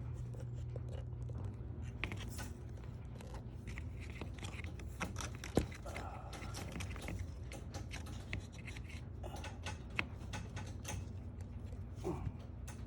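Scattered light clicks and scrapes of a garage door opener's carriage being worked by hand onto its rail, with one sharp click about five and a half seconds in. A steady low hum runs underneath.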